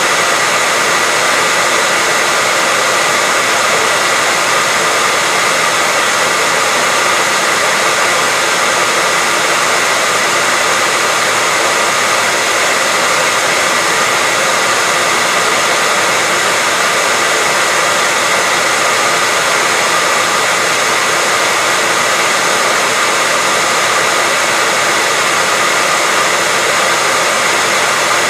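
Hair dryer running continuously at a steady speed: an even rushing of air with a faint whine from the motor.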